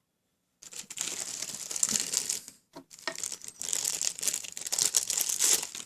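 Crinkling rustle with many small clicks, in two stretches with a short break about three seconds in: handling noise as things on the nail table are picked up and moved.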